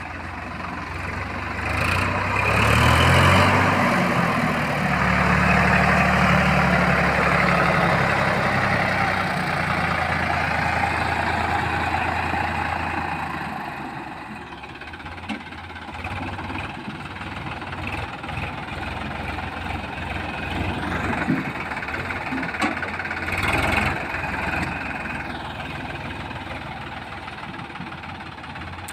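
Heavy diesel engine revving up about two seconds in and running hard for about ten seconds, then dropping back to a quieter idle with scattered clunks and knocks.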